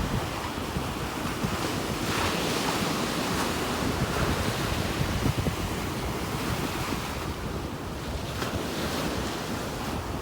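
Ocean surf breaking and washing up the beach, with wind buffeting the microphone. A wave's wash swells about two seconds in and fades after a few seconds.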